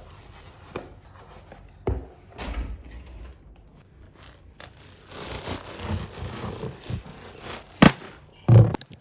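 Handling noises as rubbish is taken out: rustling and a few knocks, then a sharp click and a heavier thud near the end.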